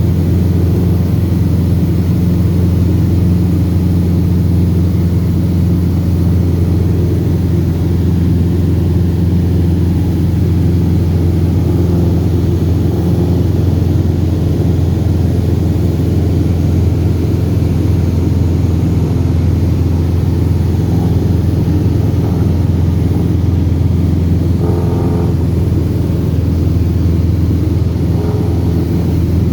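Cessna 172RG's four-cylinder Lycoming engine and propeller running in a steady, even drone at constant power.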